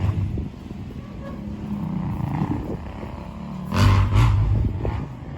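Motocross dirt bike engines revving, with a louder burst about four seconds in over a steady low rumble.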